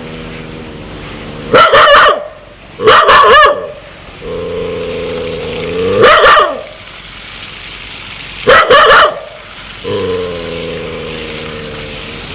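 A dog growling in long, steady stretches, breaking into loud barks four times: an aggressive warning from a dog that wants to bite.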